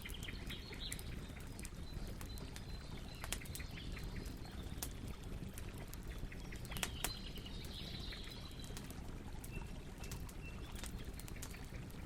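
Campfire crackling, with scattered sharp pops and snaps over a steady low rustle of burning wood, and faint bird chirps in the background.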